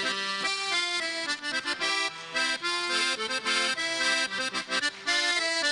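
Russian garmon (button accordion) playing a lively chastushka tune alone, in quick-changing reedy chords, as the instrumental break between sung verses.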